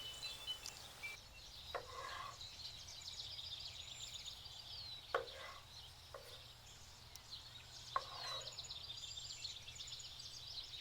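Four separate sharp knocks of a knife striking a wooden cutting board while vegetables are cut, over continuous birdsong chirping.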